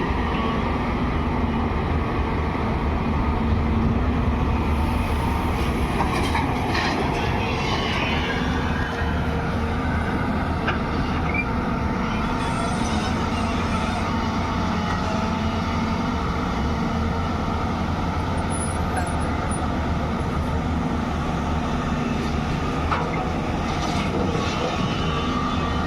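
JCB 205 excavator's diesel engine running steadily under working load while it digs and loads soil, with a few brief knocks a few seconds in and again near the end.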